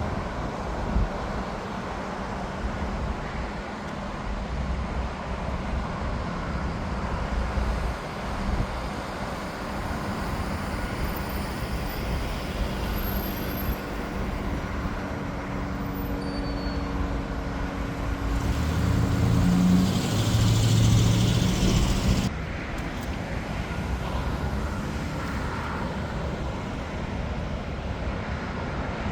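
Steady rumble of airport and road-traffic engines. It swells louder for a few seconds past the middle, then drops off suddenly.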